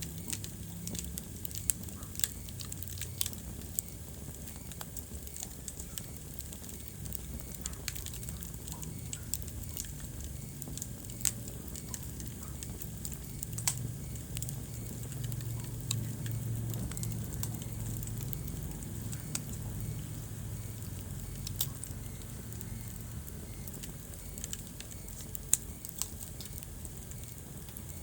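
Wood fire burning in a fireplace, crackling and popping at irregular intervals over a low steady rumble of flames.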